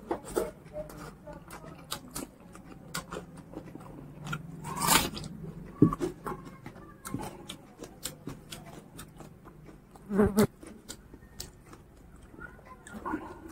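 Close-miked mouth sounds of a person eating pork curry and rice by hand: wet chewing and lip smacks with many short clicks, and louder smacks about five and ten seconds in.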